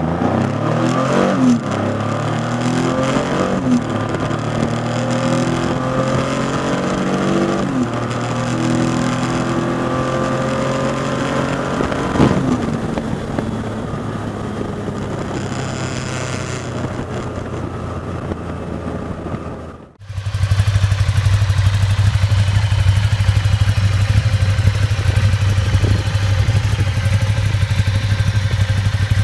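Cruiser motorcycle engine, its pitch rising and falling repeatedly as it revs and rides. About two-thirds of the way through it cuts off suddenly and gives way to a steady, low engine note.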